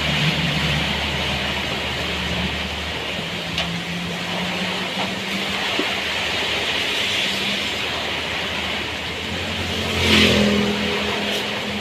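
A vehicle engine running with a low hum under a steady hiss of heavy rain; about ten seconds in the engine briefly swells louder.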